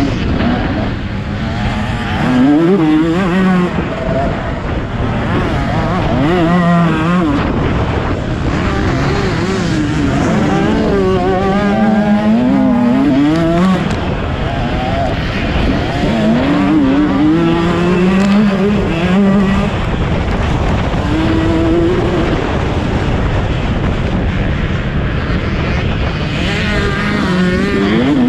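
Motocross bikes racing, their engines revving up and dropping back over and over as the riders work the throttle and change gear, with several engine notes overlapping.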